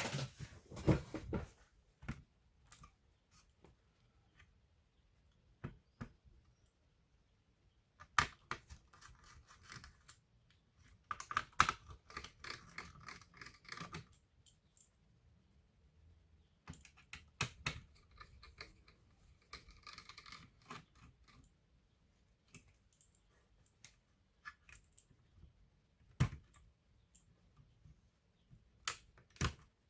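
Scattered clicks, taps and scraping from hands working on an Asus A42F laptop's plastic case and small parts, with two longer stretches of scraping, one about a third of the way in and one past halfway.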